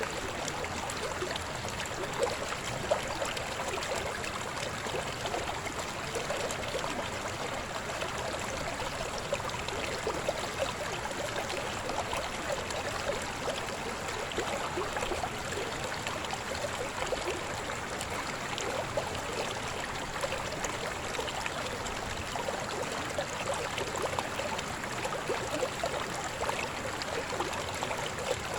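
River babbling over rocks: a steady, unbroken splashing and gurgling flow with no change in strength.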